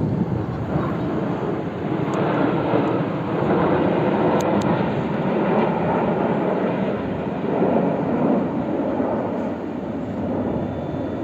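Military jet aircraft passing overhead: a steady, rushing jet-engine noise that swells about two seconds in and eases slightly near the end.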